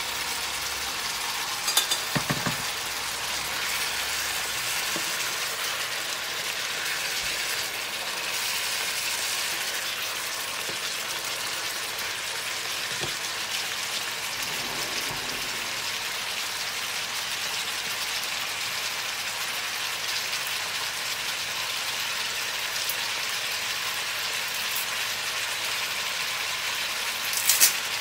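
Minced pork, mushrooms and udon noodles sizzling steadily in a frying pan. A few sharp knocks come about two seconds in and again just before the end.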